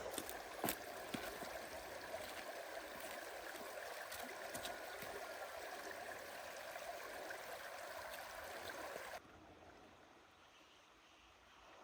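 Steady rush of running water with a few sharp clicks near the start; it cuts off abruptly about nine seconds in, leaving only a faint background.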